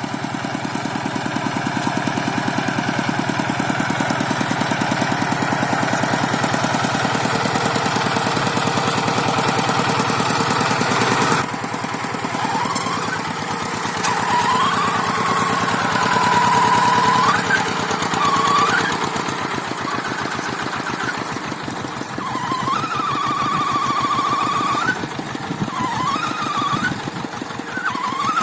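Farm tractor engine running with a fast, even beat. About 11 seconds in the sound changes abruptly, and after that a high, wavering squeal comes and goes over the engine several times.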